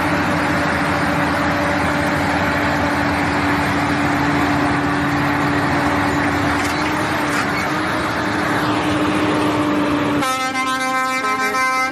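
Steady, loud vehicle noise with a low hum, then about ten seconds in a horn sounds, a long steady blast.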